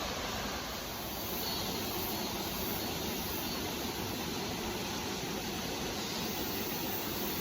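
Mountain stream rushing steadily, a constant even wash of water noise.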